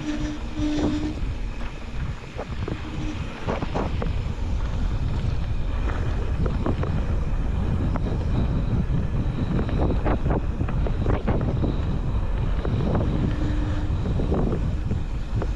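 Wind buffeting the microphone over a steady low rumble of riding on a rough track, with frequent knocks and rattles from the bumps and a brief squeal near the start and again near the end.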